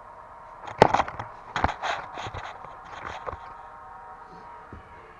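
A sharp knock about a second in, then a few lighter knocks and clatters: tools and parts being handled while working on a car's brake caliper to push its piston back.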